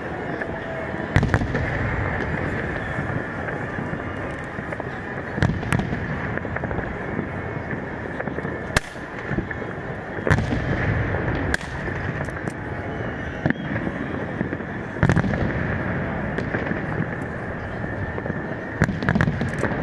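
Aerial fireworks shells bursting with sharp bangs at irregular intervals, about eight loud ones, several followed by a low rumble, over steady background noise.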